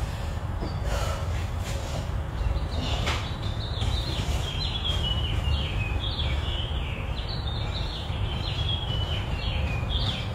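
A small bird chirping over and over from about three or four seconds in, a string of short, falling chirps, over a steady low rumble.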